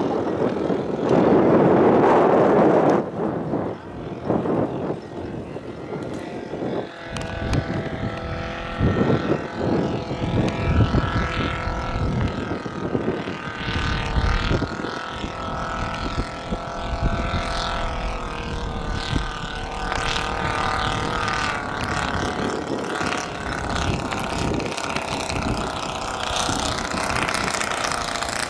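Scale model aircraft's engine and propeller running steadily, opening with a loud rushing noise for about three seconds, then a steady droning hum that shifts slightly in pitch.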